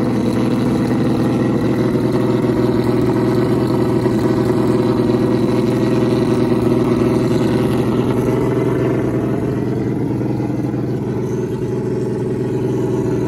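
1983 Porsche 911 Turbo (930) 3.3-litre air-cooled turbocharged flat-six idling steadily after a cold start, with a slight dip in level about ten seconds in.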